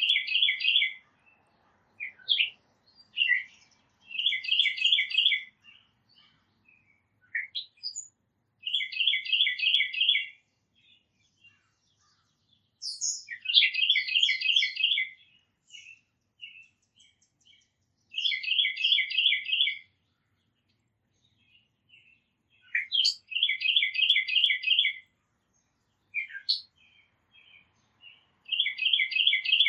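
A songbird singing the same short trilled song over and over: a quick run of repeated notes, about a second and a half long, every four or five seconds. Fainter single chirps from other small birds fall between the songs.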